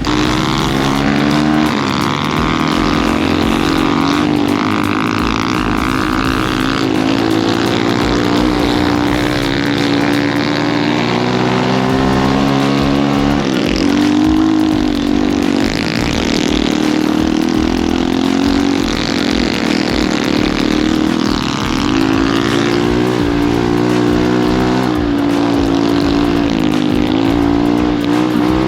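Pit bike engine being ridden hard: its pitch climbs under throttle, then drops sharply at shifts or when the throttle is let off, several times over.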